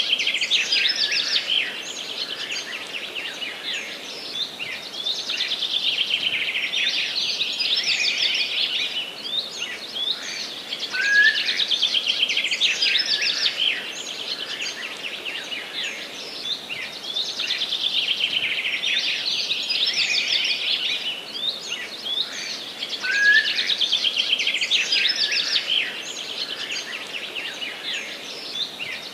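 A forest songbird repeating the same song about every six seconds, five songs in all. Each song opens with a short rising note and runs into a long, fast trill of about four seconds, over a faint steady hiss.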